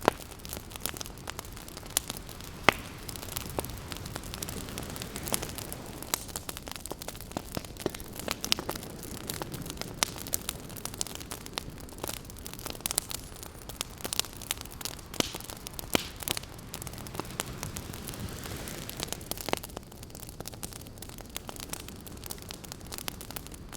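Wood campfire crackling with frequent sharp pops, over a soft wash of ocean waves that swells and fades a few times.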